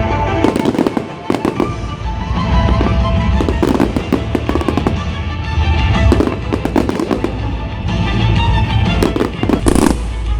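Fireworks display: shells bursting and crackling in quick succession over a continuous low rumble of booms, with music playing alongside.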